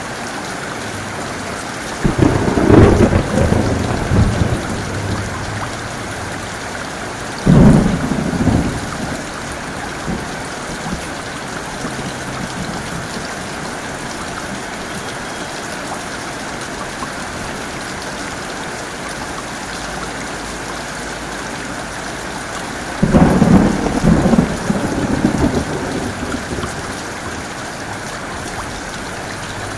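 Heavy rain falling steadily, with three sudden thunderclaps that rumble away over a second or three each: one about two seconds in, a shorter one near eight seconds, and one about twenty-three seconds in.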